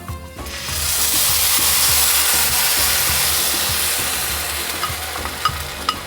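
Food frying in a hot pan: a loud sizzle swells up about a second in, then slowly eases, with a few sharp pops of spitting fat near the end.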